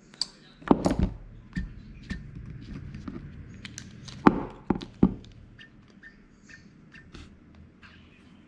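Clicks and taps of small tools and metal parts being handled during work on a brushless drone motor, with several louder knocks in the first half.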